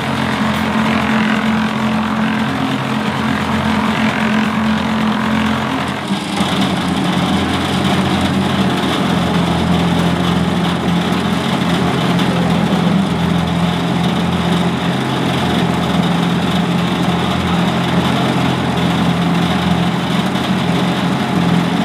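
An engine running steadily, its pitch stepping down slightly about six seconds in.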